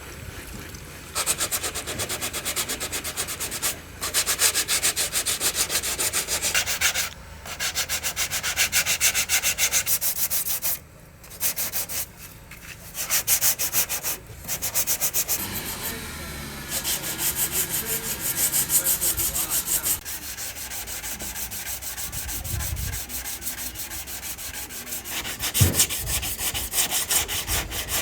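Sanding by hand: fast, even back-and-forth scraping strokes in stretches of a few seconds, broken by brief pauses.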